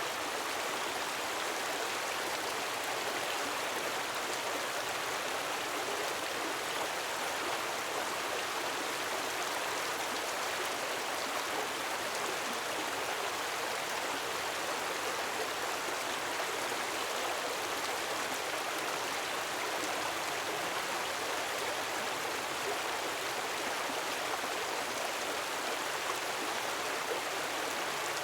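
Gentle waterfall of falling water running steadily, an even rush with no swells or pauses.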